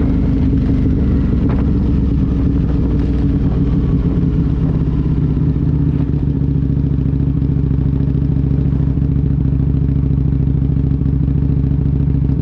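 Aprilia Tuono V2 1000's V-twin engine running at low, steady revs, easing down slightly over the first few seconds and then holding even.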